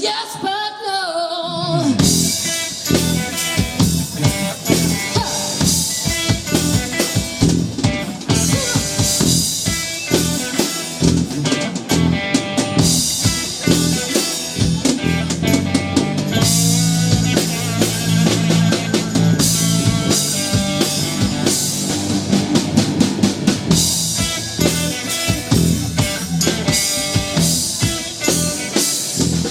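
Band playing an instrumental passage of a rock song: drum kit with snare and bass drum, guitar and bass. After a thinner opening, the full band comes in about two seconds in.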